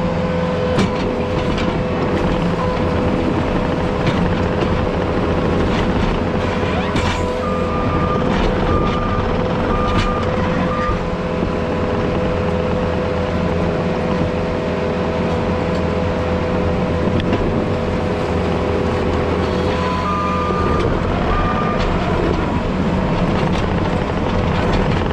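Heavy earthmoving machine's diesel engine running steadily under load while grading. Its reverse alarm beeps in two short spells, once about a third of the way in and again near the end, as the machine backs up.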